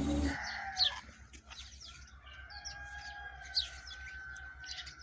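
A rooster crowing one long, drawn-out call, with small birds chirping around it.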